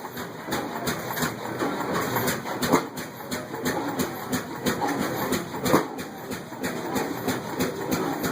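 Several old stationary oilfield engines running together, a steady clatter of uneven knocks and exhaust beats.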